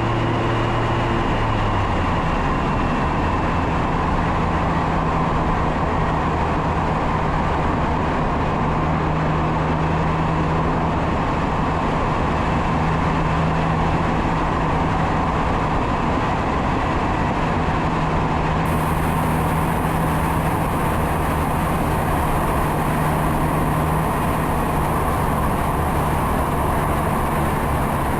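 Mazda MX-5 Miata ND2's 2.0-litre four-cylinder engine and exhaust under way, heard from a front-bumper camera under heavy wind rush. The engine note drops about a second in, then holds fairly steady.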